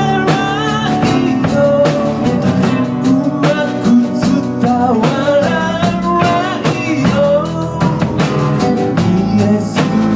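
A live band playing a rock-style song, with a steady drum beat under a melody that slides in pitch.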